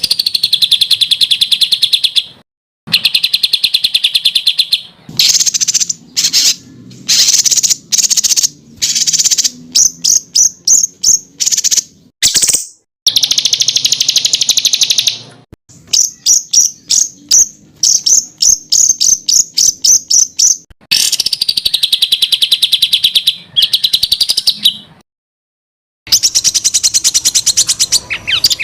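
Songbird singing loud, rapid high-pitched trills and fast runs of sharp chirps. The song comes in phrases a few seconds long, broken by short silences. It is the sharp, rapid 'tembakan' material used in masteran to tutor competition songbirds.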